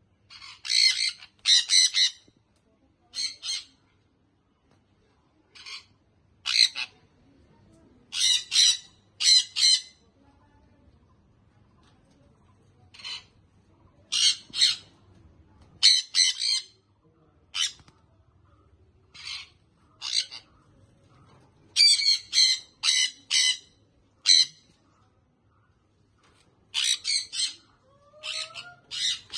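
Baby sun conure giving repeated harsh squawks, mostly in quick runs of two to four with short pauses between.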